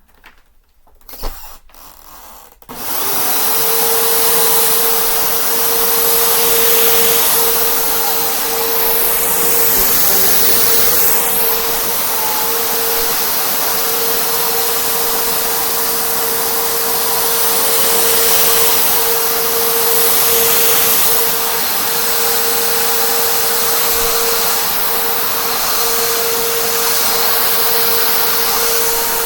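Hoover Rewind Plus (UH70140) upright vacuum cleaner switched on: a couple of clicks, then about three seconds in the motor starts and runs steadily with a loud rush of air and a constant whine.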